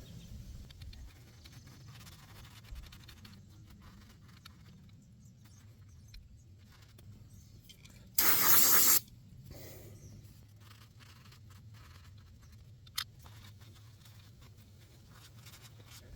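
Shop towel rubbing and wiping inside a throttle body, with one short hiss of aerosol throttle body cleaner about eight seconds in, the loudest sound. A single sharp click follows a few seconds later.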